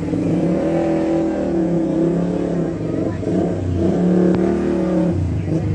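A large 'horeg' street sound system with stacked subwoofers playing loud, bass-heavy music during a sound check, its melody shifting in pitch over a deep low end.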